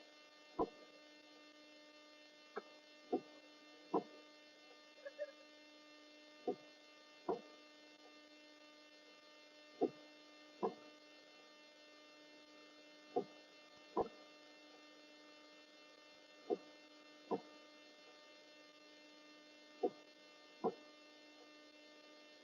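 A steady electrical hum with many overtones, with short clicks in pairs about a second apart that repeat every three to four seconds.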